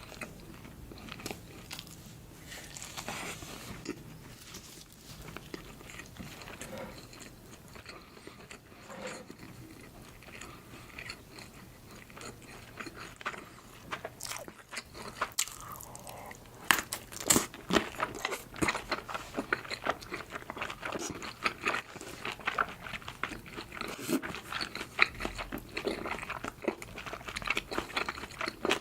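Close-miked eating: a person biting and chewing food with wet mouth clicks, quieter at first, then louder and denser bites and chewing from about halfway through.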